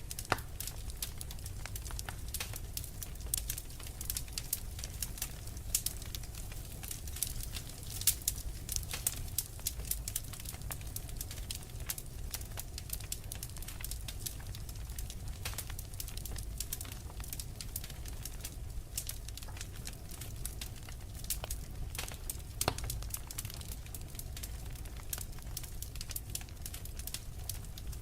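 Wood fire crackling in a fireplace: irregular sharp pops and snaps over a low, steady rumble of the flames, with a few louder pops scattered through.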